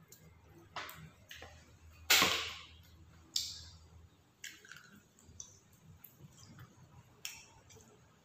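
A person eating chicken satay close to the microphone: chewing with wet mouth clicks and smacks, coming in scattered short sharp sounds, the loudest about two seconds in.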